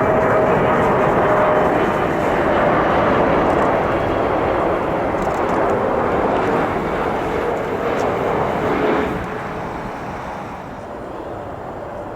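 Jet airliner passing by: a loud rushing engine noise with a tone that falls slowly in pitch, easing off about nine seconds in.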